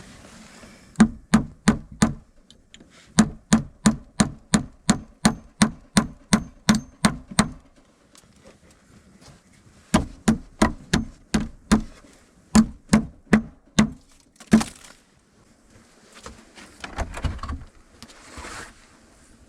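Quick hammer blows on wood, about three a second, in three runs with short pauses between, then one more single strike. A brief rustling noise follows near the end.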